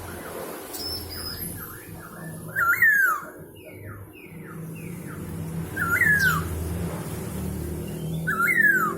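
Poksay hongkong laughingthrush singing: three loud whistled calls, each rising then sliding down in pitch, with runs of short falling notes between them. A low steady hum sits underneath.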